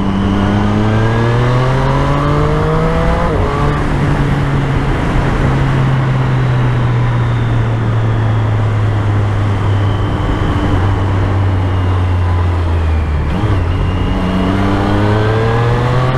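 Triumph Street Triple's three-cylinder engine under way, revs climbing for about three seconds to a quick gear change, then holding fairly steady for several seconds. The revs drop about 13 seconds in and climb again near the end.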